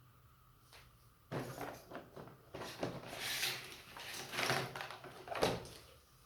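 A run of irregular knocks, scrapes and rustles, as of things being handled or moved, starting about a second in and ending with a sharper knock near the end.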